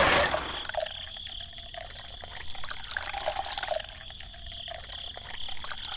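A loud running sound cuts out about half a second in, leaving trickling and dripping water with small irregular splashes.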